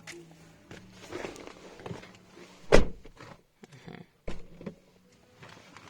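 Car door being opened and swung, with small clicks, one loud clunk a little under three seconds in and a second knock about a second and a half later. There is no creak, because the door's check spring has been removed.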